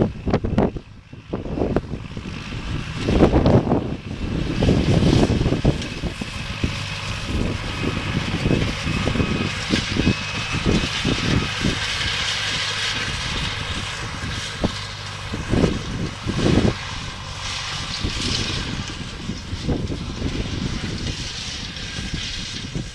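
Tractor engine running at a steady working speed as it pulls a disc harrow through the arena soil, with gusts of wind buffeting the microphone now and then.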